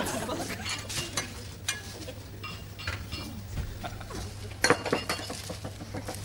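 Light clinks and clatter of tableware: a run of small knocks, some ringing briefly, with a louder clatter near the end.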